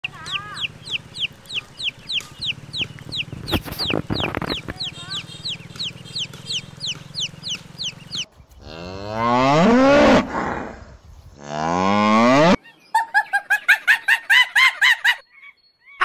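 Ducklings peeping in a fast run of short falling chirps, about four a second. Then a cow moos twice in two long calls, followed by a quick series of honking calls.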